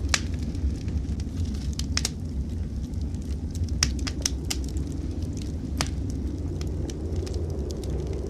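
Wood fire in a fireplace crackling, with sharp irregular pops, over a steady low rumble of blizzard wind.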